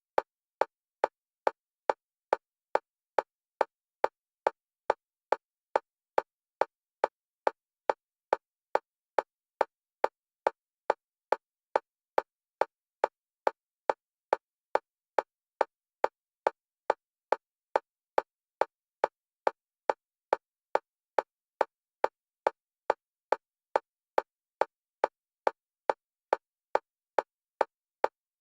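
Metronome click at a single pitch, repeating fast and evenly about three times a second, alternating between the left and right stereo channels as bilateral stimulation for EMDR.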